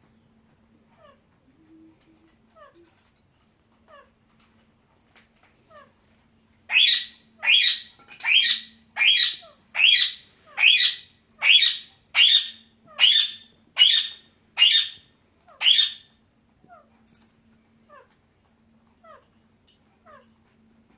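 Parakeet giving a run of about a dozen loud, harsh squawks in an even rhythm, a little under one a second, in the middle, with faint short falling calls before and after.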